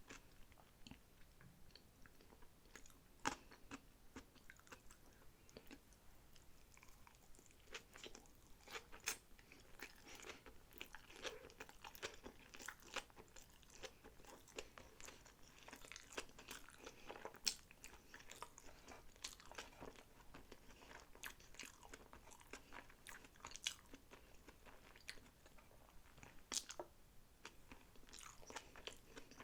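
Close-miked ASMR chewing and biting of sushi rolls: wet mouth sounds with many irregular sharp clicks and a few louder bites.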